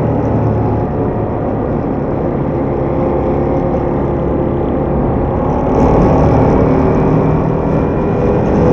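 Ducati Diavel motorcycle engine running steadily, growing a little louder about six seconds in.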